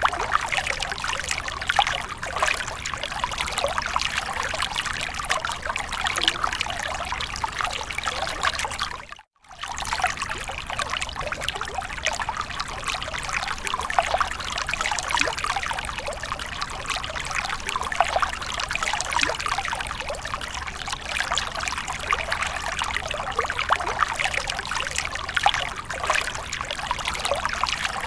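Water pouring and splashing in a steady, continuous trickle. It cuts out to silence for a moment about nine seconds in.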